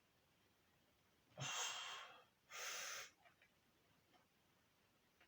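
A man breathing hard from the effort of heavy squats: two sharp breaths, each about half a second long, the first about a second and a half in and the second about a second later.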